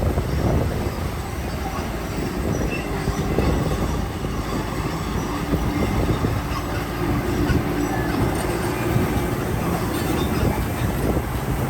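Heavy earthmoving machinery running steadily, with a faint steady tone for a few seconds in the middle.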